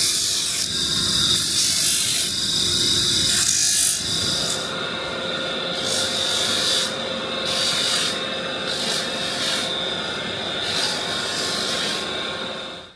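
Hand abrading on the knife: a file or abrasive rubbed back and forth in steady rasping strokes, about one stroke a second. It stops abruptly at the end.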